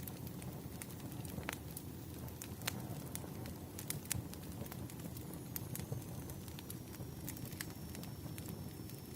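Wood fire crackling: irregular sharp pops and snaps over a steady low rumble. A faint thin high whine starts about halfway through and holds.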